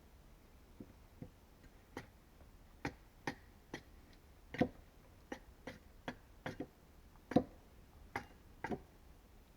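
Light, sharp taps and knocks of hand-tool work on wood, about fifteen strikes at uneven intervals, two of them noticeably louder.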